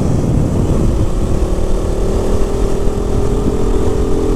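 KTM RC 200's single-cylinder engine running as the motorcycle is ridden. A steady engine note comes up about a second in and slowly rises as the bike gently picks up speed, over a low rumble of wind on the microphone.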